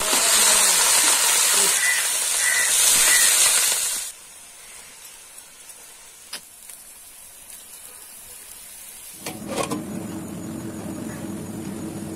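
Sliced onions hitting hot oil with fried dried red chillies in an iron kadai, sizzling loudly for about four seconds and then cutting off abruptly. Near the end a steady low hum sets in.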